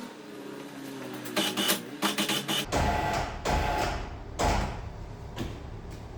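Metal clanks and rattles during engine removal, with a low rumble coming in about two-thirds of the way through.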